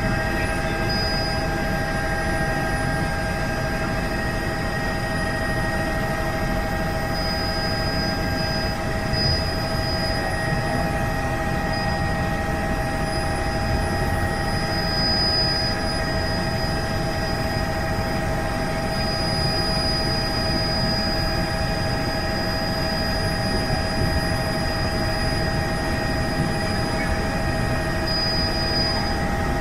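Helicopter in flight: steady engine and rotor noise with several unchanging whining tones over it.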